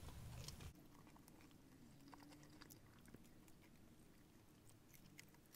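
Near silence, with faint chewing of fried chicken: soft, scattered mouth clicks. A faint low hum cuts off under a second in.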